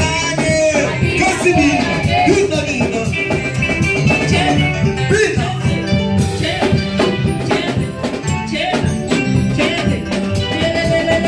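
Live church band music, congolese-style worship with electric guitar lines over bass and drums, with some singing.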